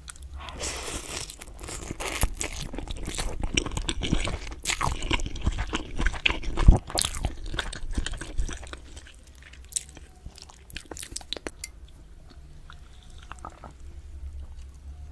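Close-miked chewing and crunching of food, dense for the first eight or nine seconds with one especially loud bite partway through, then thinning to quieter, occasional mouth clicks.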